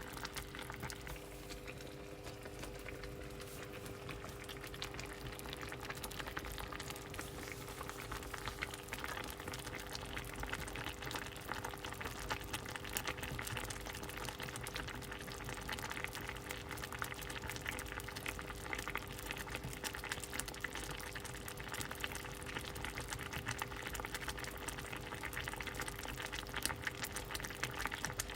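A pot of soup at a boil, a dense continuous crackle of bubbles popping, with a steady low hum underneath.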